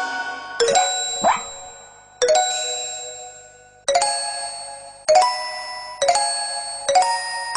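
An electronic chiming melody: bell-like notes struck about once a second, each ringing on and fading before the next. A short rising whoop comes about a second in.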